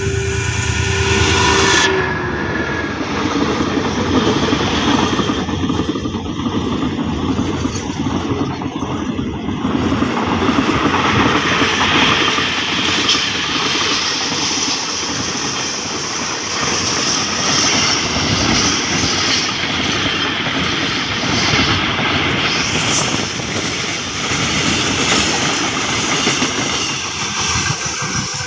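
Freight train led by a CSR diesel-electric locomotive: its horn sounds steadily and cuts off about two seconds in, then the locomotive and a long string of container flat wagons pass close by with a continuous rumble and clatter of wheels on rail, fading near the end as the last wagon moves away.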